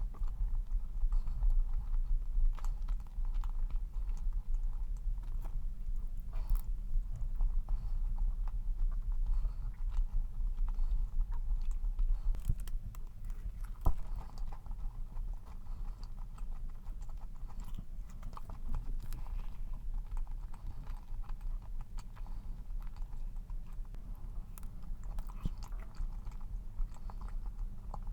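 Chewing and biting a dense, fudgy cream-cheese cup cookie: a continuous run of small wet mouth clicks.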